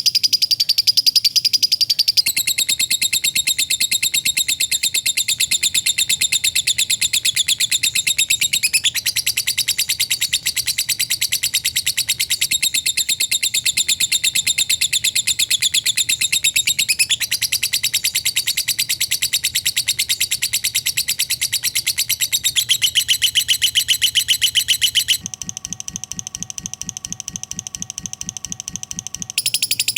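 Lovebird singing a long, fast 'ngekek' chatter: a continuous, very rapid high trill that runs without a break. It shifts pitch abruptly a few times and drops in level for a few seconds near the end.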